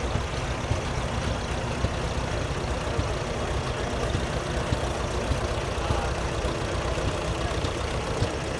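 Antique tractor engine running steadily at low speed, a low rumble with no change in pitch.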